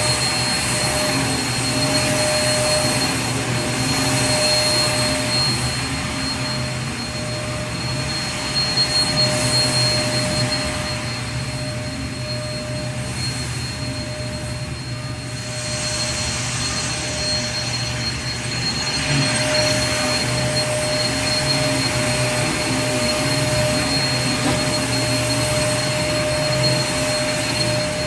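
Vacuum cleaner motor running steadily: a continuous whooshing hiss over a low hum, with a constant whine on top. The airy hiss thins for a few seconds in the middle and then comes back up.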